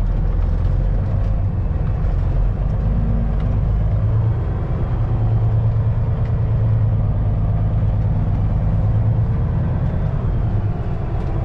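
Semi truck's diesel engine running steadily at low speed, its low hum growing louder for several seconds in the middle.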